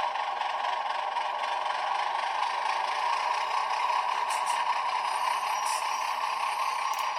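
Diesel switcher engine sound from a LokSound V5 decoder, played through a tiny sugar cube speaker in an HO-scale ALCO HH600/660 model, running steadily with a thin, tinny tone. It keeps going without dropping out as the model crosses poor-contact track, with the decoder's Power Pack supplying power.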